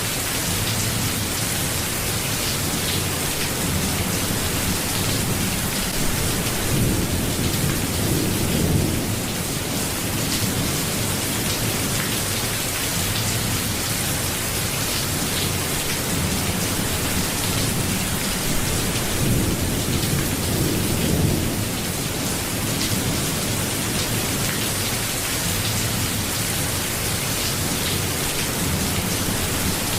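Steady rain falling as an even hiss, with low thunder rumbling and fading twice, about eight seconds in and again around twenty seconds in.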